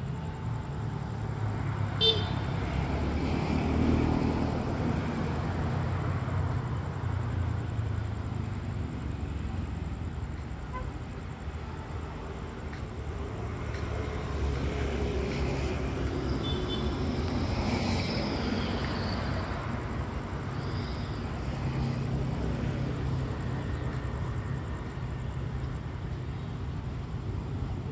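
Vehicle engines idling, a steady low rumble, with a few short clicks and rattles about two seconds in and again around sixteen to eighteen seconds in.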